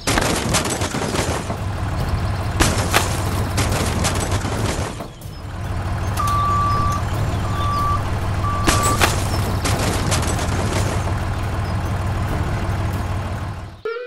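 Heavy vehicle engine running steadily, with stretches of rough grinding noise. A reversing alarm beeps three times about six seconds in.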